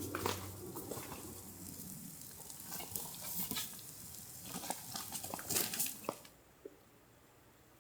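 Faint rustling with scattered small clicks and knocks, which stop about six seconds in.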